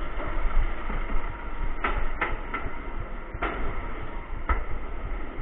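Inverted roller coaster train rolling along its track with a steady low rumble, broken by a handful of sharp metallic clanks at uneven intervals, the first two about two seconds in.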